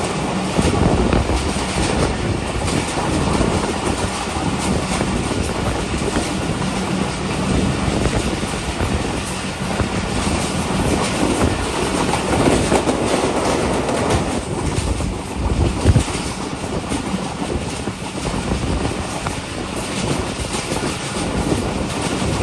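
Passenger train coach running along the track, heard from an open window: a steady rumble and rattle of steel wheels on the rails, with a sharper knock about 16 seconds in.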